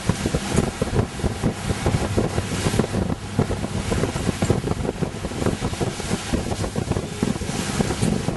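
Wind buffeting the microphone aboard a boat under way, gusting unevenly over the rush of water and a low steady hum.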